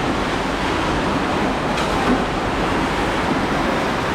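Steady rush of storm wind, gusting and rumbling on the microphone.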